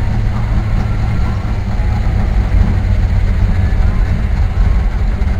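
Car engine and road noise while driving: a steady low rumble.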